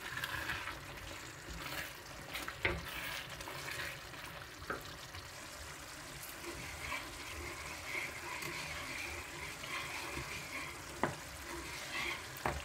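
Food frying and sizzling in a pan, a steady hiss, with a few sharp knocks scattered through it.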